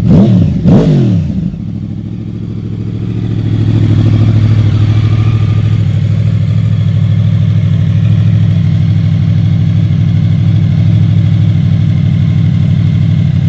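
2009–2014 Yamaha R1 (RN22) crossplane 'big bang' inline-four running through a full Akrapovic exhaust: the throttle is blipped twice, with quick rises and falls in pitch, then the engine settles into a steady idle.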